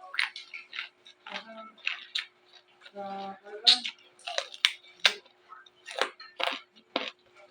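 Close-up crunching and chewing of raw vegetables: a run of crisp, sharp bites and chews. A short hummed "mm" comes about three seconds in.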